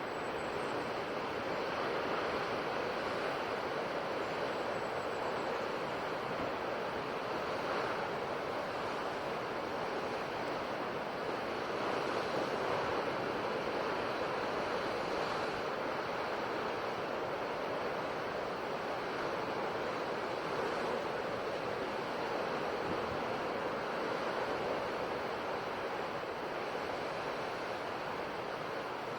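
Ocean waves breaking and washing on a shore in a steady, continuous surf wash, swelling gently every few seconds.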